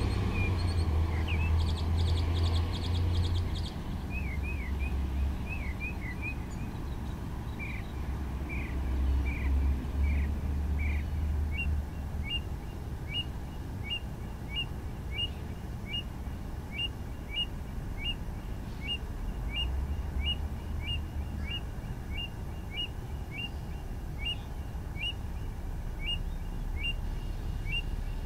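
A bird calling over and over: first a run of short downward-sliding chirps, then from about halfway a steady series of short high chirps about two a second. A low rumble runs underneath.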